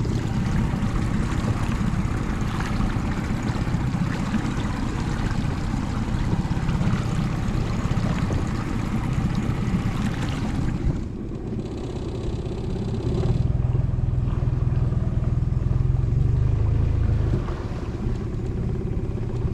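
Small outboard motor on a tiny boat running steadily at low speed, with a rushing noise over it. The rushing drops away about halfway through, leaving a steadier low hum.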